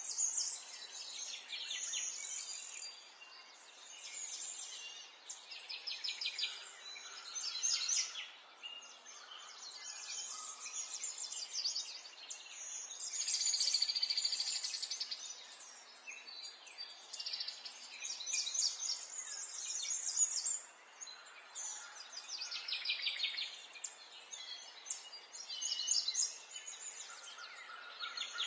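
Several songbirds singing and chirping over one another, with quick trills and repeated notes, over a faint steady background hiss.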